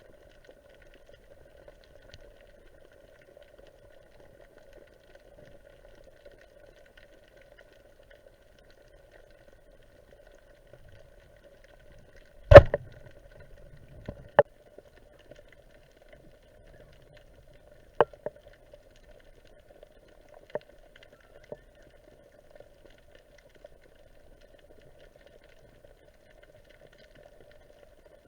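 Underwater sound: a faint steady hum with a few sharp clicks and knocks. The loudest comes about twelve and a half seconds in, and three or four fainter ones follow over the next ten seconds.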